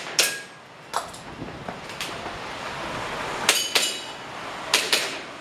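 Airsoft pistol firing about six single shots at an irregular pace, each a sharp crack. A few carry a brief metallic ring, typical of BBs striking steel targets.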